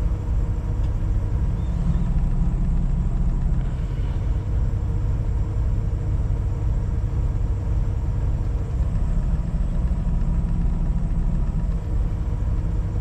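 Semi-truck diesel engine idling steadily with a low rumble while the truck stands waiting in traffic.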